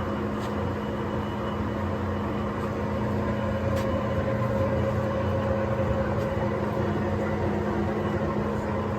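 Kingston HR3000 gap-bed engine lathe running under power: a steady mechanical hum with a low drone. A few faint ticks sound over it.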